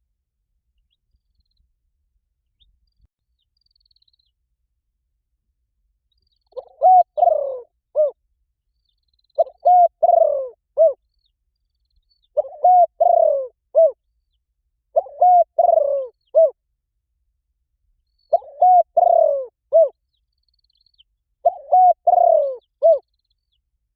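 Spotted dove cooing: after about six seconds of silence, six repeated phrases of a few short, falling coo notes, one every three seconds or so.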